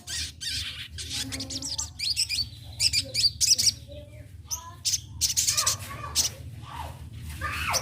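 Young sunbird (sogon) singing: rapid bursts of high, thin chirps and trills, repeated throughout, over a steady low hum.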